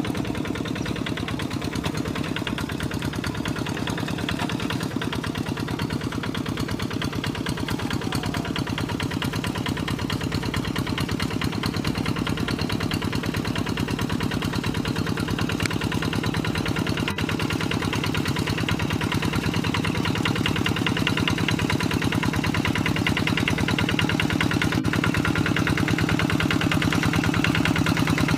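Single-cylinder Kubota RD85DI-2S diesel engine of a Quick G3000 hand tractor running steadily with a fast, even chugging, growing slightly louder toward the end.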